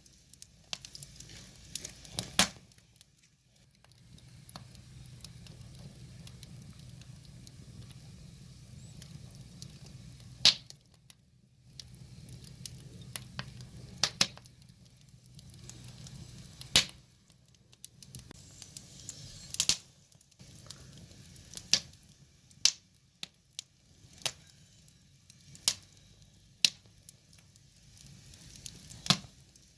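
Firewood fire crackling: irregular sharp pops and snaps, a few of them much louder, over a low steady background.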